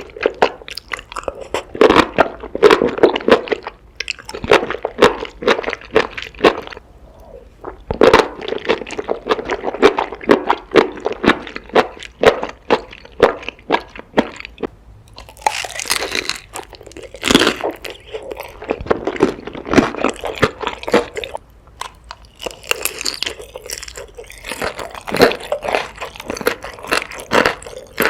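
Close-miked eating: biting and chewing with many crisp clicks and crunches, coming in spells of a few seconds with short pauses between them.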